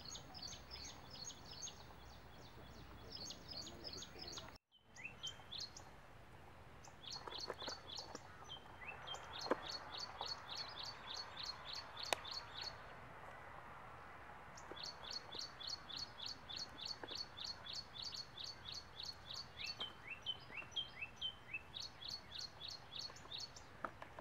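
Small birds chirping in quick runs of short, high, repeated notes, with a brief drop to silence about four and a half seconds in.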